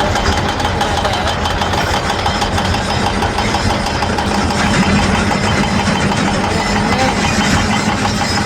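Diesel engines of excavators at work, a steady heavy engine rumble with a constant low hum.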